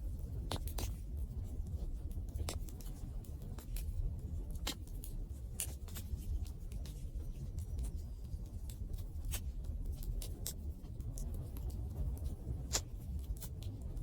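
Campfire crackling: irregular sharp pops and snaps over a steady low rumble of the burning fire, with one louder pop near the end.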